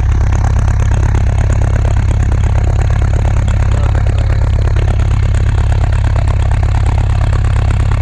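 A 1989 Volkswagen Vanagon's engine idling steadily while still warming up, heard close, with a busy clatter over a strong low hum.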